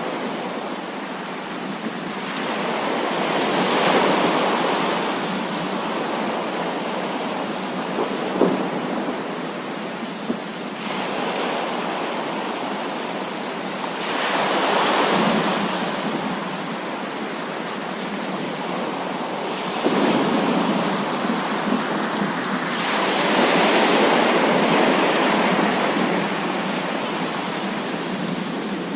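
Heavy rain pouring steadily, with long rolls of thunder swelling and fading three times: a few seconds in, about halfway, and for several seconds late on. A few sharp cracks stand out above the rain.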